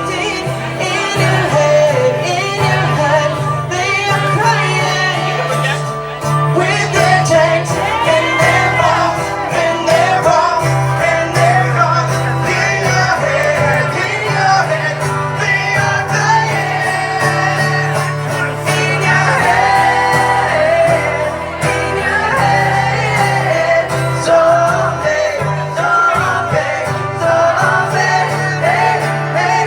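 A song performed live: a singer's voice over guitar accompaniment with a steady low bass underneath.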